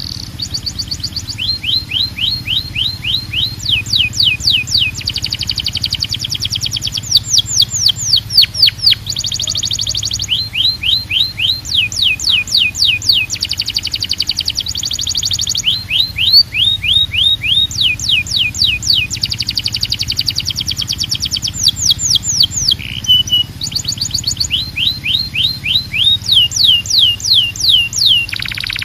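Canary singing a long, continuous song of rapid trills: quick repeated high-pitched notes, switching to a new run of notes every second or two.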